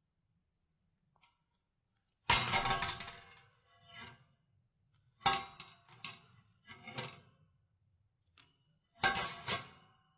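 Hard objects clinking and clattering as they are handled, in about four separate bursts of sharp knocks with a brief metallic ring, the loudest about two seconds in.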